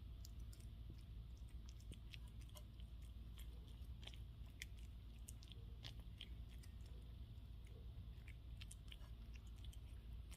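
A cat's mouth noises after eating: quiet, irregular little clicks and smacks of chewing and licking, over a steady low hum.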